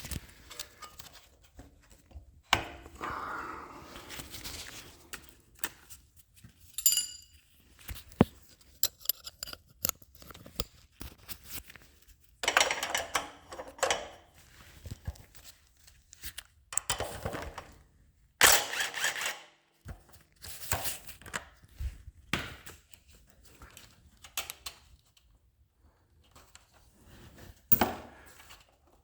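Hand tools and metal parts being handled while a portable generator is taken apart: scattered clicks, knocks and clinks, a few scraping, rubbing bursts, and one ringing metallic clink about seven seconds in.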